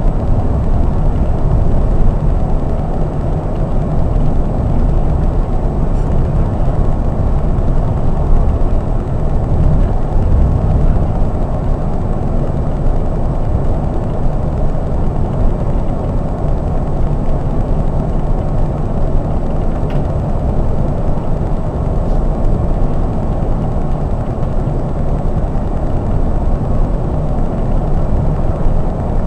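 Scania K420 double-decker coach cruising on the highway, heard from on board: a steady low drone of engine and road noise that holds even throughout.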